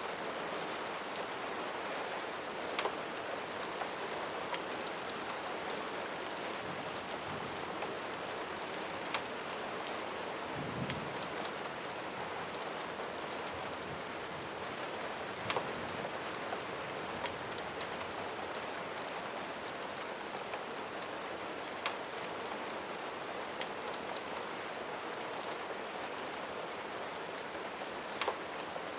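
Steady rain pattering, an even hiss with a few sharp pops roughly every six seconds and a brief low rumble about eleven seconds in.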